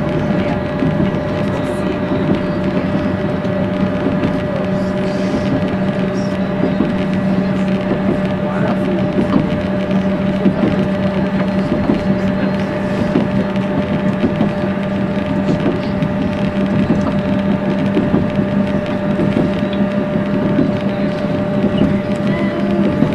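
Steady drone of a diesel train heard from inside the carriage while it runs at an even pace: a held engine hum with a few higher steady tones over an even rumble of wheels on rail.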